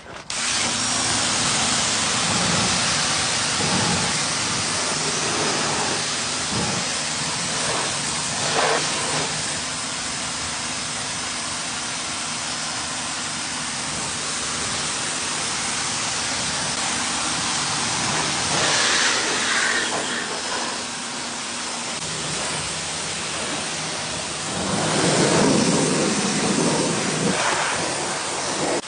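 High-pressure water spray rinsing road salt off a vehicle: a steady hiss with a low motor hum beneath, swelling louder briefly near the end.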